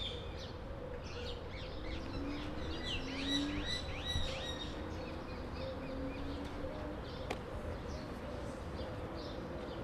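Small birds chirping, a quick run of repeated chirps about two to four seconds in and scattered calls after, over a faint steady hum.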